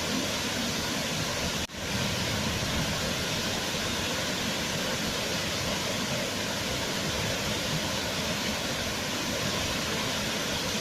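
Waterfall rushing steadily. The sound drops out for an instant a little under two seconds in, then carries on unchanged.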